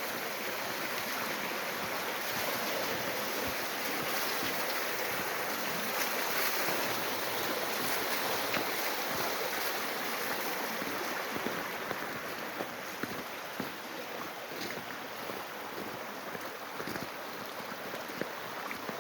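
Mountain stream rushing steadily, with a few faint clicks in the second half.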